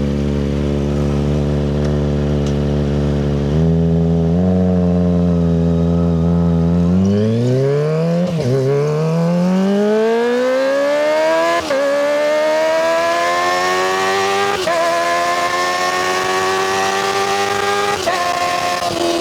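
Kawasaki ZX25RR's 250 cc inline-four through a Yoshimura Hepta Force exhaust, running steadily at first, then accelerating hard from about seven seconds in. The pitch climbs and briefly dips four times, about every three seconds, as it shifts up through the gears.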